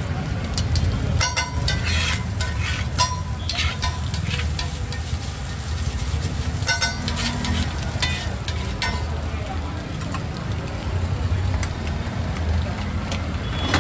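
Eggs sizzling as they fry at a street-food stall, with a spatula clattering against the cooking surface several times. A steady low hum runs underneath.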